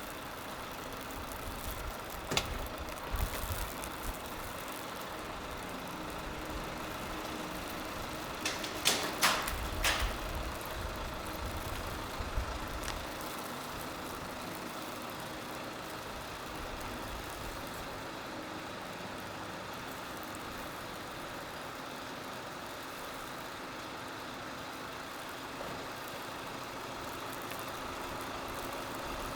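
A motor vehicle's engine idling steadily. A sharp knock comes about two seconds in, and a short cluster of clattering knocks comes around nine to ten seconds in.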